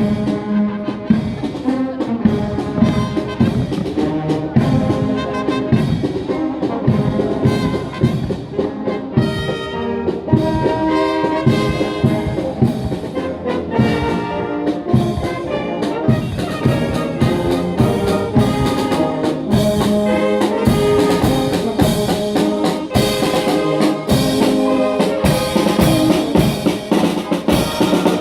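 Marching brass band playing, trumpets and trombones over a steady drum beat.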